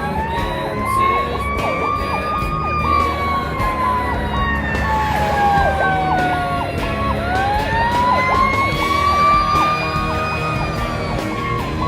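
Fire engine running with its siren. One siren wails, rising over about two seconds and falling slowly for about five, then rising again. Under it a second siren tone chops rapidly up and down, and the truck's engine rumbles low.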